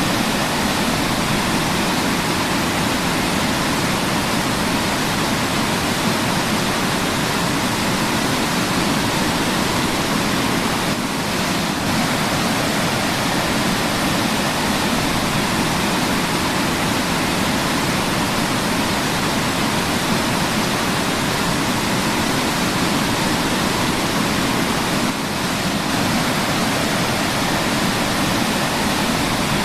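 Waterfall, water falling and splashing with a loud, steady rush that dips briefly twice.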